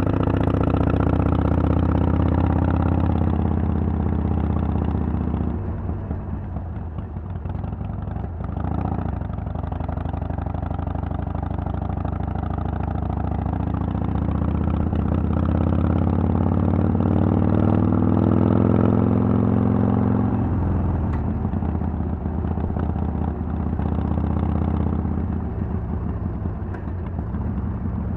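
2010 Harley-Davidson Sportster 883's air-cooled V-twin running through Vance & Hines Twin Slash mufflers under way. It holds steady, backs off about five seconds in, then pulls up with rising revs in the middle and eases off again about twenty seconds in.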